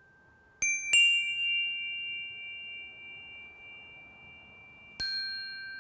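Small high-pitched metal chimes struck three times: two strikes close together about half a second in, a third near the end. Each leaves clear, bell-like tones that ring on and slowly fade.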